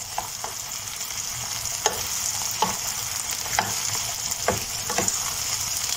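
Diced potatoes, onions and tomato frying in oil in a lidded pan, a steady sizzle with scattered short clicks.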